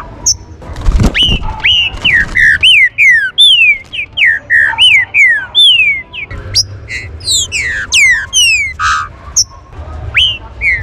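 Green-winged saltators (trinca-ferro) calling: a rapid, overlapping string of short whistled notes that slide downward, from more than one bird. There is a low thump about a second in.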